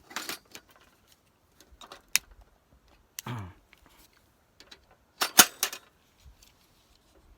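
Scattered clicks and light knocks of small hard objects being handled, with a short downward-sliding tone about three seconds in and a quick cluster of louder clinks about five seconds in.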